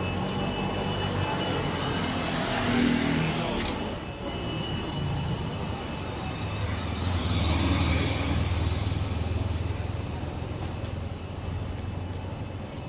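Street traffic: motor vehicles passing on the road, swelling twice, about three seconds in and again around eight seconds in, the second with a steady low engine note.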